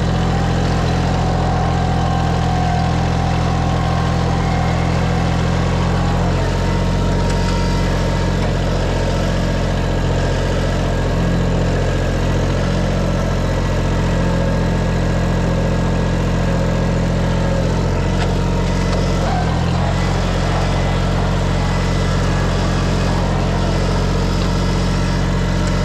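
Farm tractor engine running steadily under way, its note changing briefly about nineteen seconds in.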